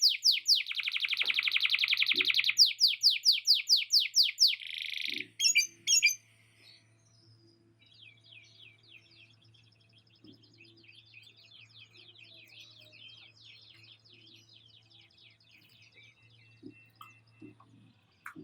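Canary singing: loud, very fast trilled rolls of repeated notes for about five seconds, then a few short sharp notes and fainter twittering for the rest. The song carries lovebird-style chattering phrases learned from a lovebird.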